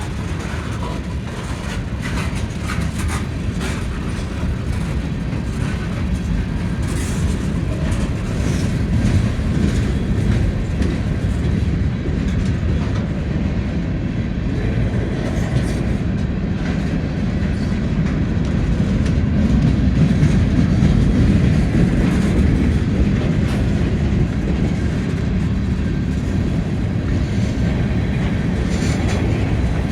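Train's cars rolling past on the rails: a steady rumble with scattered wheel clicks.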